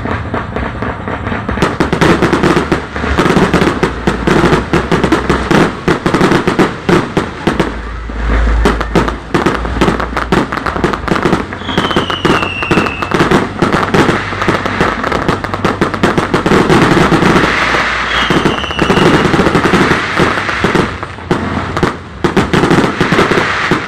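Fireworks display: a dense, continuous barrage of aerial shell bursts, booms and crackling, with a couple of short high whistles along the way.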